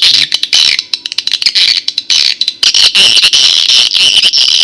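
Recorded swiftlet lure calls played loudly through a swiftlet-house amplifier and speaker: a dense, fast, high-pitched chirping twitter with rapid clicks, getting steadier and fuller about halfway through.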